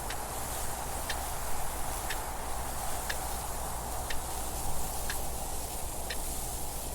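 Clock ticking about once a second, each tick a short, crisp click, over a steady wind noise.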